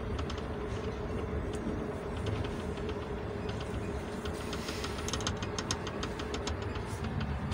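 Inside a moving passenger train carriage: the steady low rumble of the wheels on the track with a steady hum, and many light rattling clicks, thickest in the second half.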